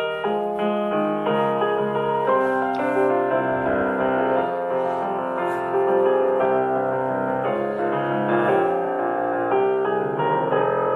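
Background piano music: gentle piano playing a flowing run of notes at a steady level.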